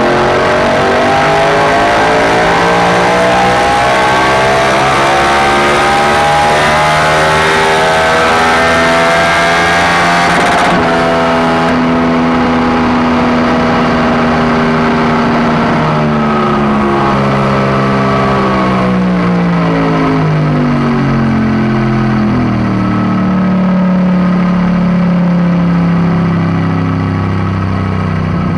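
Yamaha MT-07's parallel-twin engine, breathing through an Akrapovič titanium exhaust, revving on a dyno run. The engine note climbs steadily under load for about ten seconds and cuts off abruptly. The revs then wind slowly down for about fifteen seconds to a steady lower note near the end.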